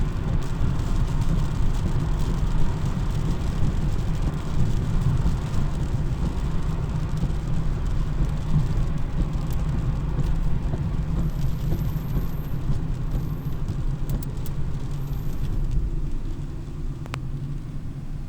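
Car on the road: a steady low rumble of engine and tyre noise that eases slightly near the end.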